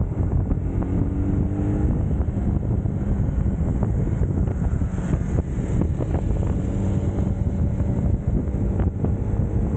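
Wind buffeting the camera's microphone at riding speed on a UM Scrambler X motorcycle, with the bike's engine running underneath. A faint engine tone shows through about a second in.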